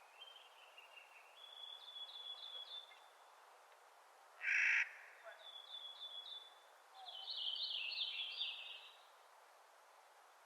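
Clark's nutcracker calling, with one loud harsh call about four and a half seconds in, among runs of quieter rapid notes before and after.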